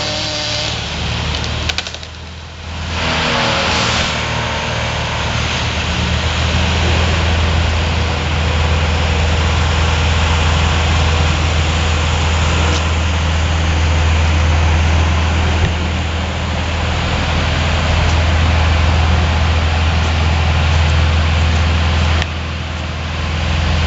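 A large engine running steadily with a low drone. It dips briefly about two seconds in.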